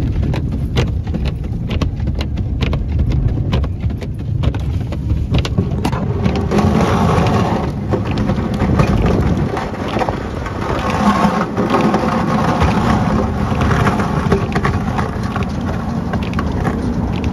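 Ford F-250 pickup driving through snow drifts on tire chains, heard as a steady low engine and road rumble in the cab. A quick run of sharp clicks fills the first few seconds. From about six seconds in, a louder rushing of snow against the truck takes over.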